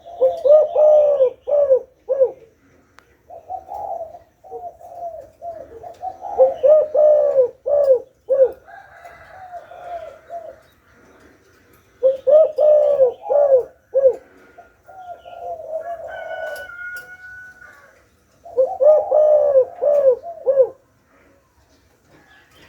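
Spotted dove giving its calling coo: loud phrases of throaty coos repeated about every six seconds, four times, with softer cooing between them.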